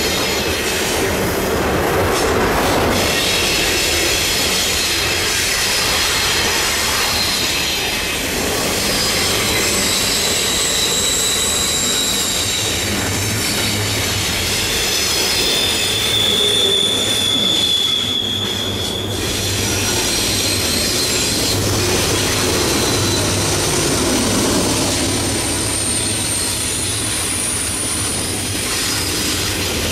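CN intermodal freight train rolling past, with a steady rumble and clatter of wheels on rail and high-pitched wheel squeal that comes and goes.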